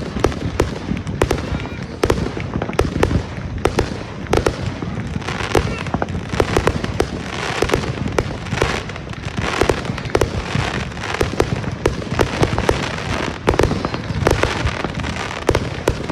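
Fireworks going off in a continuous barrage: sharp bangs two or three a second over a constant crackle.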